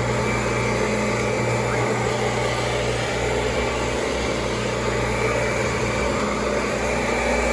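Kirby G4 upright vacuum cleaner running steadily, a constant motor hum with a thin high whine over a rushing of air.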